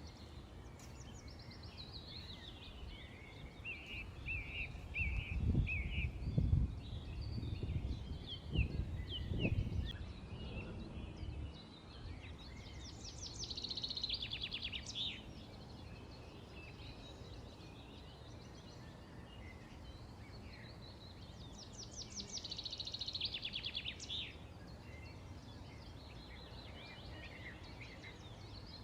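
Several small birds chirping and calling, with two fast rattling trills of about two seconds each, one around halfway through and one later. A low rumble rises and falls for several seconds near the start.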